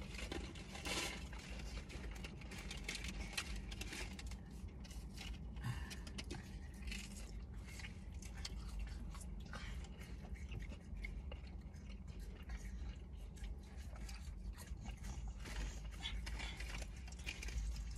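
Close-up chewing and biting of fried fish and fries, with many small crunches and wet mouth clicks, over a low steady hum.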